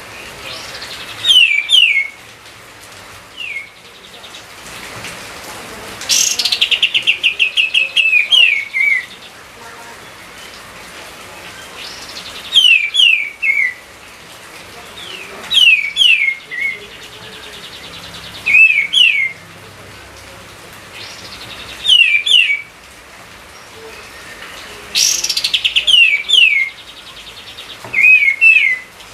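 A songbird singing short phrases of quick, descending whistled notes, repeated every few seconds; twice a phrase opens with a fast rattling trill.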